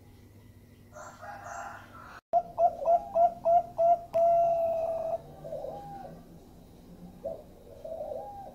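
Zebra dove (perkutut) cooing: a rapid run of about six short, clipped notes leading into one longer held note, followed by softer coos. A brief, harsher call comes about a second in.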